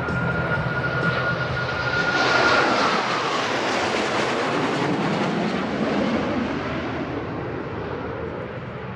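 Twin-engine F/A-18 jet making a fast pass: a high whine that drops in pitch as it goes by, with the engine noise loudest about two and a half seconds in and then slowly fading.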